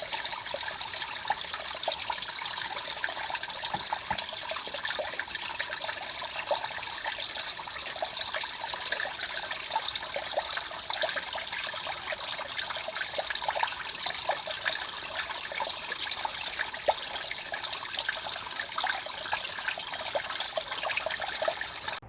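Running water of a mountain stream, a steady trickling babble.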